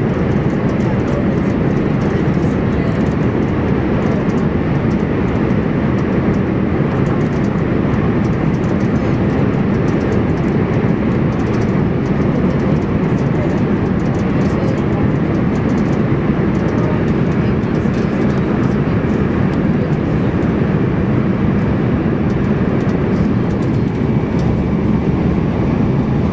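Cabin noise of a Class 395 Javelin high-speed electric train running at speed through a tunnel: a steady, loud, deep rumble of wheels on rail and rushing air that does not let up.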